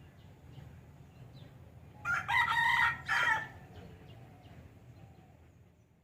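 A rooster crowing once, about two seconds in, for roughly a second and a half, over a low steady hum and faint small bird chirps.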